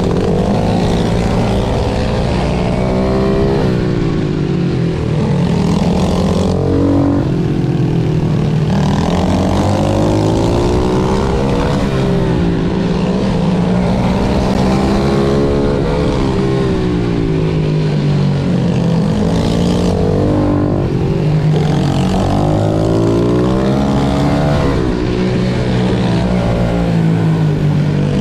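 Pit bike engine revving hard and easing off over and over, its pitch rising and falling repeatedly as the bike accelerates, shifts and brakes.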